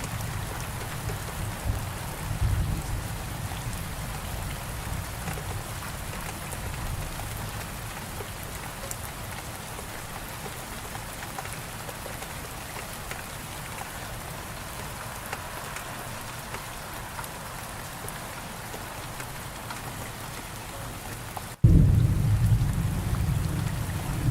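Steady heavy rain falling, with a low rumble of thunder that fades away over the first several seconds. Near the end a loud thunder rumble cuts in abruptly after a brief gap, where the recording is spliced.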